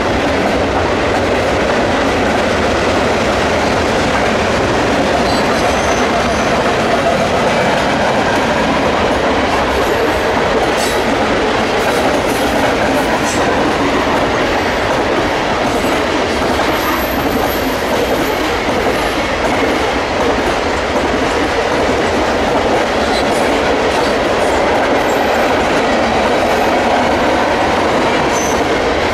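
Freight train cars rolling across a low bridge: a steady, unbroken rumble and clatter of steel wheels on the rails.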